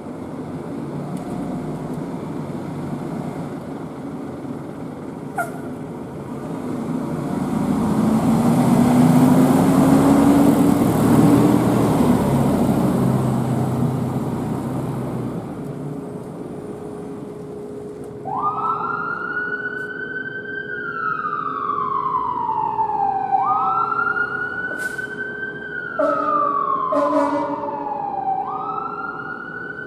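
Passing traffic noise swelling and fading, then an emergency vehicle's siren wailing from a little past halfway, each cycle rising quickly and falling slowly, about four seconds apart.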